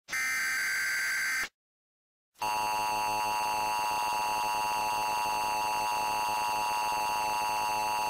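Emergency Alert System tones: a screechy digital SAME header data burst cuts off about a second and a half in, and after a second's silence the steady two-tone EAS attention signal sounds for about six seconds, announcing an emergency alert.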